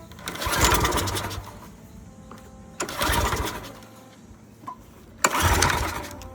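Briggs & Stratton 675 series small engine on a Craftsman pressure washer being pull-started three times, each pull turning it over briefly without it catching and running. A long-stored engine that won't start even with spray in the intake.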